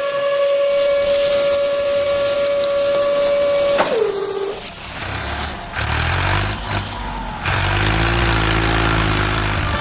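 Small electric motor running with a steady high whine, which drops in pitch and dies away about four seconds in; a lower rumbling noise follows.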